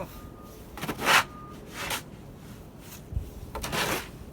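Snow shovel scraping and scooping heavy, knee-deep snow, three strokes a second or two apart.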